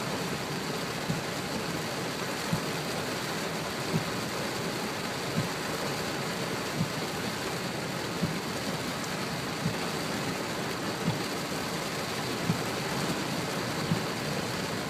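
Heavy rain falling steadily, a dense even hiss. A short knock repeats at a regular beat about every second and a half.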